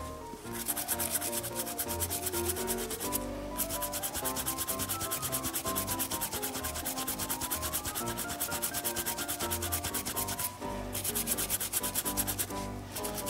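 Dauber tip of a leather-oil bottle scrubbed quickly back and forth over a strip of glove leather, a dense rhythmic rubbing of several strokes a second. It stops briefly about three seconds in and again a little before the end.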